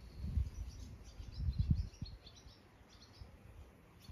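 Small birds chirping in a quick run of short high notes for about three seconds, over two low rumbles, the louder one about a second and a half in.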